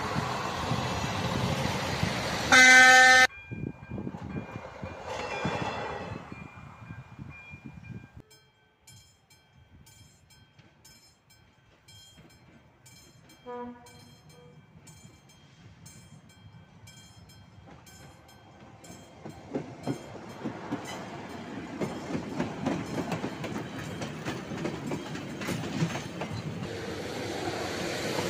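A ČD Class 810 diesel railcar and its trailer run past over the crossing, followed by a loud train horn blast lasting under a second. Then a level crossing's electronic warning bell dings in a steady rhythm, and near the end the rumble of an approaching train builds up.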